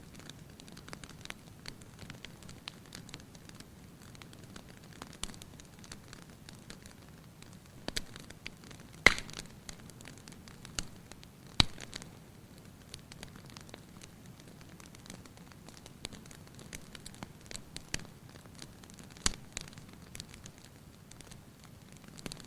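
Wood fire burning in a fireplace, crackling and popping at irregular intervals over a low steady hiss of flames, with two louder pops about nine and about eleven and a half seconds in.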